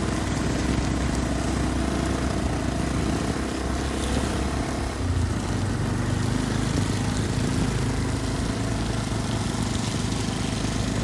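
Motorcycle engine running steadily while riding, over wind and road noise; the engine note shifts about five seconds in.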